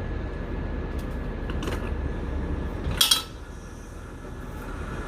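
Semi-truck's diesel engine rumbling low, broken by a single sharp metallic clack about three seconds in, after which the rumble drops to a quieter level.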